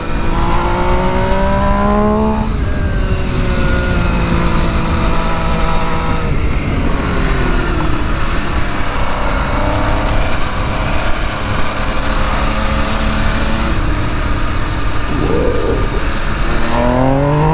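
Sport motorcycle engine pulling under throttle: the pitch rises for about two seconds, drops sharply at a gear change, runs steady and slowly falls off through the middle, then climbs again near the end. A steady rushing noise runs underneath.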